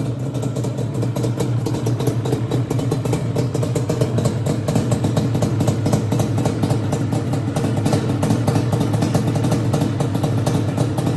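Engine running steadily through a freshly installed Toomey aftermarket exhaust, idling with a fast, even exhaust pulse and no bogging.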